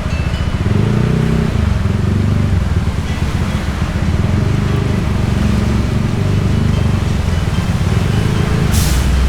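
Motorbike engine running under way, its pitch rising briefly about a second in, with a brief sharp noise near the end.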